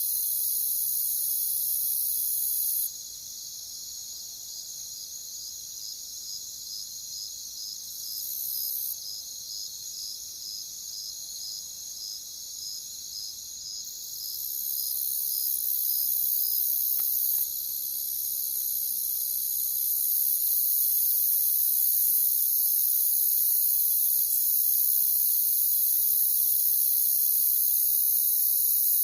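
Crickets chirping in a continuous high-pitched chorus, with one nearer cricket's regular pulsed trill standing out for a while in the middle; the chorus drops quieter about three seconds in and swells back louder from about fourteen seconds.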